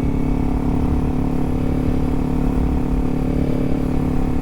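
Kawasaki Z400's parallel-twin engine running at a steady pitch while cruising, over a low rumble of wind.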